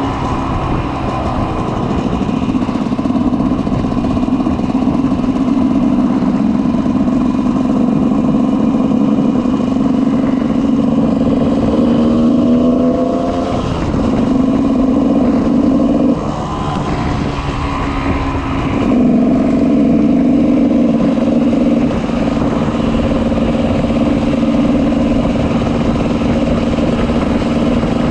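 2004 GasGas EC 300's single-cylinder two-stroke engine through an FMF Powercore 2 silencer, running at a steady drone for long stretches. Its pitch rises and drops several times around the middle as the throttle is worked.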